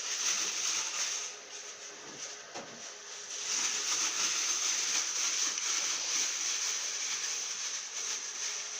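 Thin plastic bag holding cut potato pieces being shaken and kneaded to mix them, giving a continuous crinkling rustle that eases for a couple of seconds near the start.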